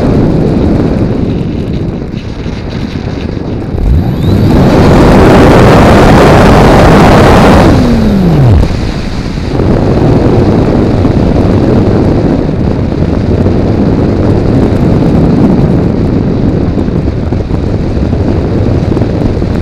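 Wind rushing over the onboard camera's microphone of an RC model plane in flight. About four seconds in, its electric motor and propeller run up loud, and after about eight seconds they wind down with a falling whine.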